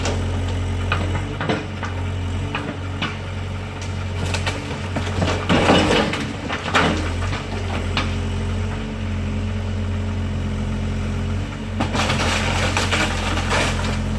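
Excavator demolishing a wooden garage: wood cracking and crunching as the structure is torn apart, heaviest about five to seven seconds in and again near the end, over the steady hum of a diesel engine running.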